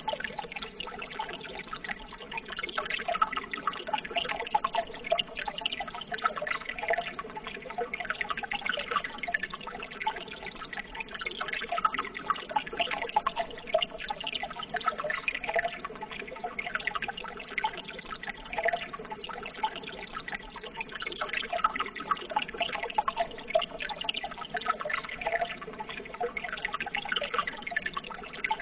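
Running water bubbling and trickling steadily, a continuous babble of small splashes and gurgles.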